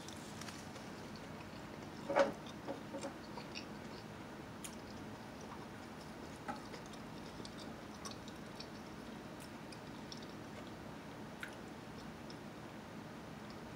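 A person eating: soft chewing and scattered small clicks over a steady faint hiss, with one louder sharp sound about two seconds in.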